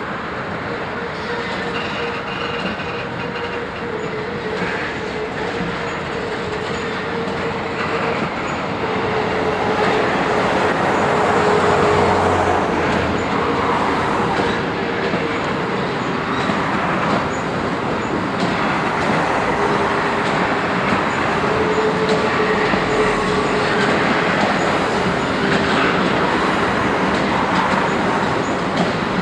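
Railway wagons rolling along the track: a steady rumble with a wavering wheel squeal running through it. It grows louder about a third of the way in.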